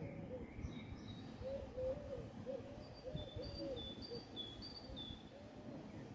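Birds calling outdoors: a series of low, arching calls, and a high two-note song phrase repeated about four times in the second half.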